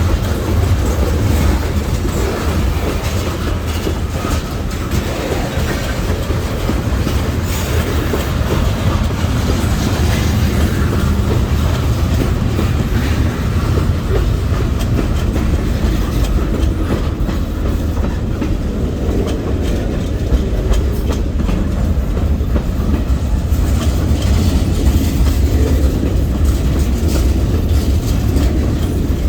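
Freight train rolling past at close range: a steady low rumble, with the wheels clicking over the rail joints.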